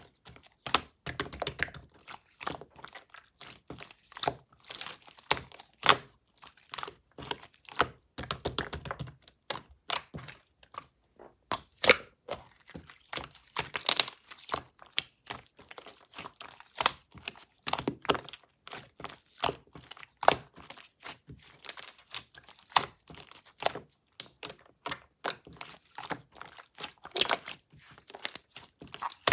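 Slime being squished, folded and poked by hand, making a dense, irregular run of small clicks, pops and crackles, with a few duller squelching thuds.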